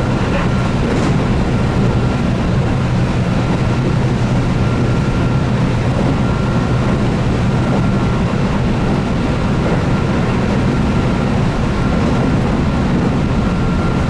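Keihan 8000 series electric train running steadily at speed, heard from inside the car. There is a continuous rumble of wheels on rail, with a faint steady hum from its DC traction motors (field-added excitation control).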